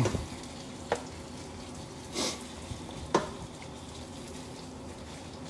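Chicken pieces frying in hot oil in a pan, a steady sizzle. A spatula clicks against the pan about a second in and again about three seconds in, and a brief louder hiss comes just after two seconds.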